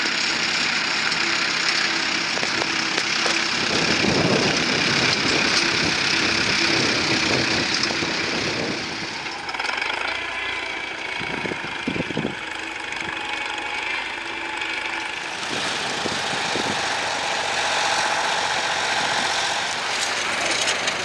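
Fordson Model N tractor's four-cylinder engine running steadily. The sound changes abruptly about nine and fifteen seconds in.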